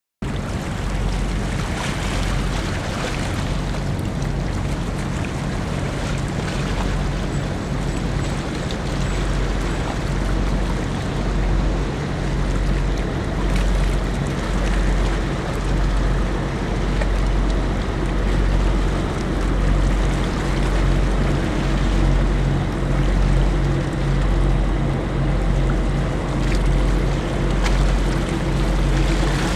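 Large car ferry's engines droning, a low hum that swells and fades in a slow, even pulse, over a steady rush of wind and water.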